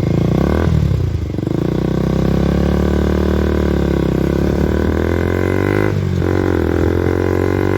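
KTM RC 200's single-cylinder engine through an Akrapovic exhaust with the dB killer removed, accelerating hard. Its pitch climbs steadily, drops with an upshift just under a second in and again about six seconds in, then climbs once more.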